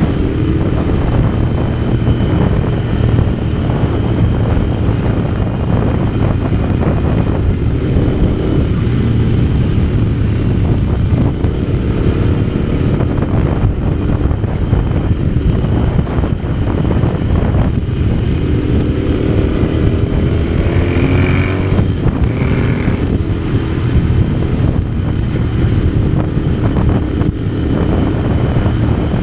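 Parallel-twin motorcycle engine running under way, with wind rushing over the microphone; the engine pitch shifts up and down about twenty seconds in.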